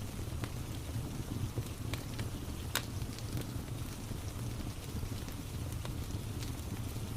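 Fireplace crackling with a few sharp pops over a steady low rumble, mixed with the even hiss of rain.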